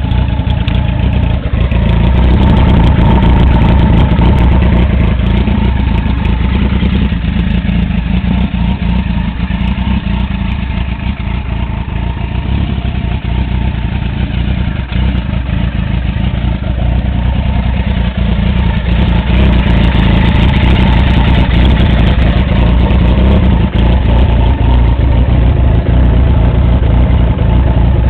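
2004 Suzuki Bandit GSF1200's air/oil-cooled inline-four idling steadily while it warms up from cold.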